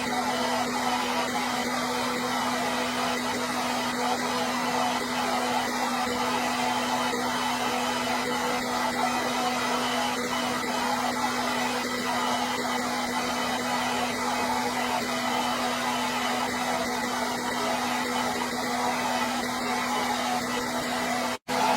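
Hair dryer running steadily: a constant airy rush with a steady motor hum underneath. It cuts out for a split second near the end, then resumes.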